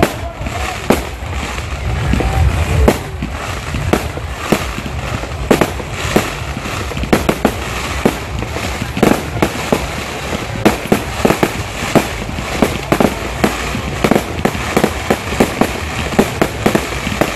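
Fireworks going off in quick succession: a long string of sharp bangs and crackles over a steady hiss, the reports coming faster in the second half.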